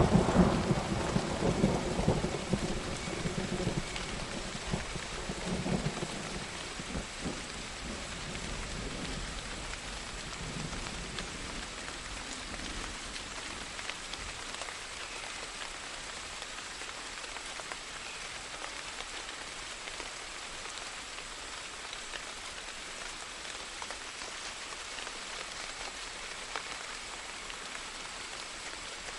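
Thunder rumbling and fading away over the first several seconds, then steady rain falling.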